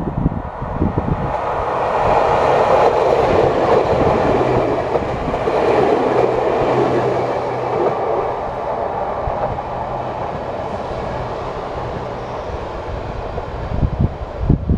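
Nagano Electric Railway train passing a level crossing. Its rumble swells about two seconds in and eases off over the following seconds, with a steady low hum underneath.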